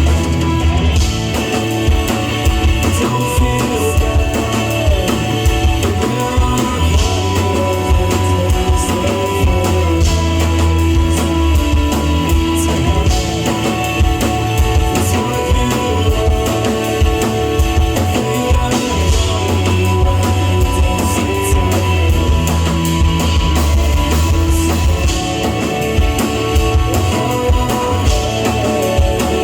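Live rock band playing a song, with electric guitars and a drum kit over a heavy low end.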